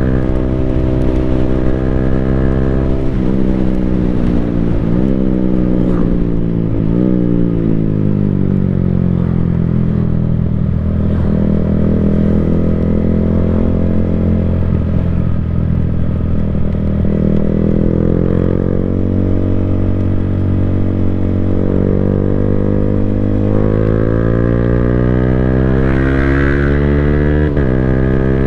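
Yamaha Sniper 155R's single-cylinder engine through an Akrapovic full exhaust system, ridden under way: the engine pitch climbs and is cut by quick upshifts a few times early on, sinks as the bike slows through the middle, then builds again to another sudden upshift near the end.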